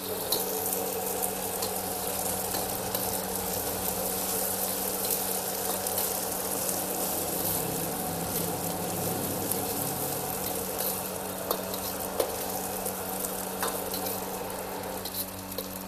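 Dried anchovies (ikan bilis) frying in hot oil in a wok: a steady sizzle with fine crackling, over a low steady hum.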